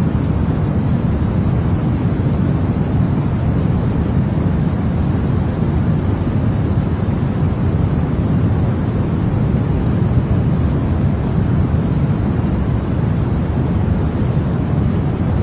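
Continuous white-noise sleep sound for babies: an even, unbroken rushing noise, deep-toned with most of its weight low and fading toward the top, with no changes.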